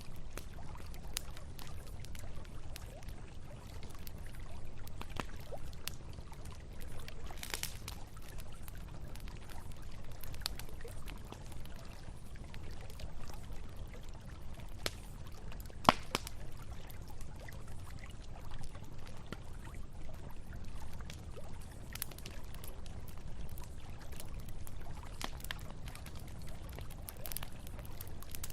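Campfire crackling with scattered sharp pops, one louder pop about halfway through, over the steady rush of flowing river water.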